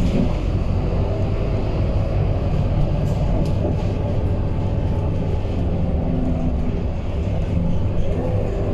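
Scania K230UB city bus's diesel engine running, a steady low drone.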